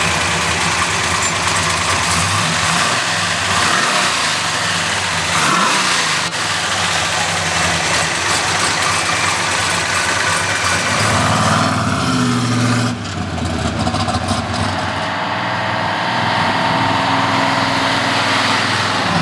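396 big-block V8 with headers in a 1969 Chevrolet Chevelle, running steadily. About two-thirds of the way through there is a sudden change, after which the car drives off under power.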